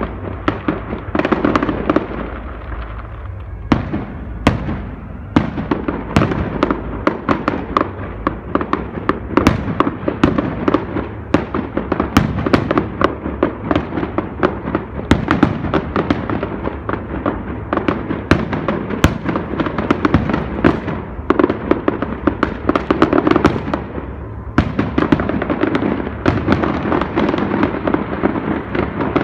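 Fireworks going off in a dense, continuous barrage of rapid bangs and crackles, thinning briefly a few seconds in.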